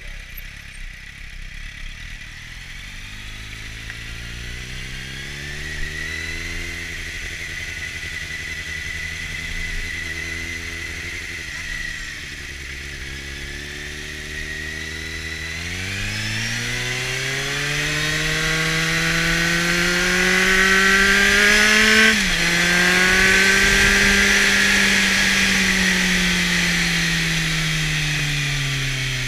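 Kawasaki Z750's inline-four engine through a LeoVince aftermarket exhaust under way: the engine note climbs in the first few seconds and holds steady, then rises hard under acceleration from about halfway through. About three-quarters through the pitch drops suddenly on an upshift, then falls slowly as the bike eases off near the end.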